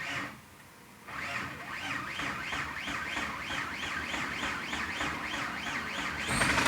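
A Mitsubishi 6A13 V6 being cranked on its starter: a short crank, then a long steady crank pulsing about three times a second. Near the end the engine catches and runs, a hard start.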